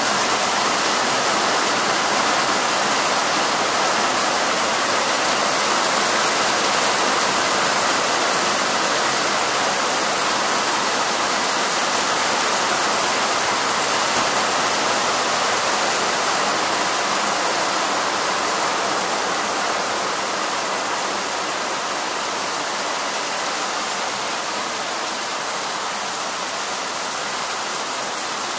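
Heavy rain falling steadily in a dense, even hiss, easing a little after about twenty seconds.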